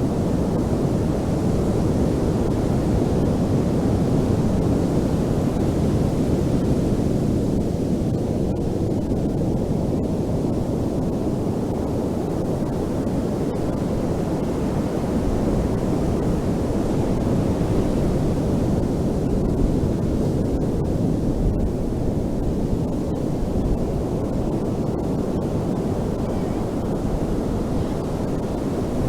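Ocean surf on a beach: a steady, deep rushing of breaking waves that swells and eases slightly without ever falling quiet.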